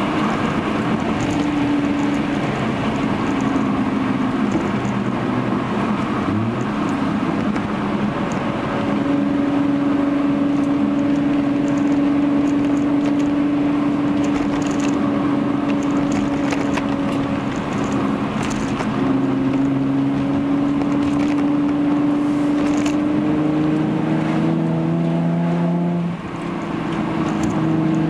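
Hyundai Genesis Coupe 3.8's V6 through a Young Motors catback exhaust, heard from inside the cabin while driving: a steady exhaust drone that slowly drifts up and down in pitch over road noise. Near the end the sound dips briefly and comes back at a new pitch.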